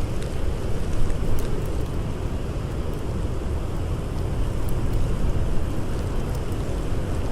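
Blizzard wind blowing as a steady low rumbling noise, with faint scattered crackles of a campfire burning.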